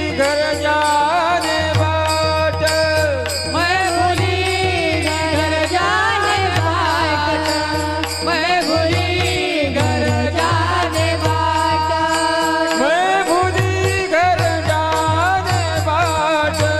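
Devotional kirtan singing of a Marathi abhang: a voice sings drawn-out, ornamented phrases over steady held instrumental tones and repeated low drum beats.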